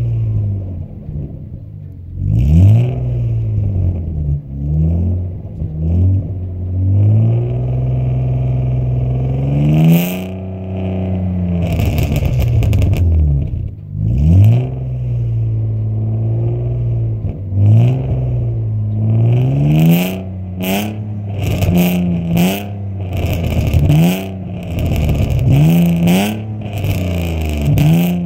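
BMW E36 320i's 2.0-litre straight-six, breathing through a straight-through exhaust with no catalytic converter, revved again and again while standing: the revs climb and fall repeatedly. In the last several seconds the revs become quicker, shorter blips with sharp crackles between them.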